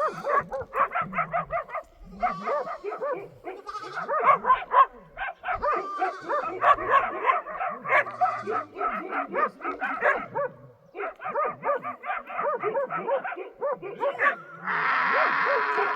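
Domestic animals calling in a dense run of short, rising-and-falling cries, several a second and overlapping, as from many animals at once. A steady hiss joins in for about the last second and a half.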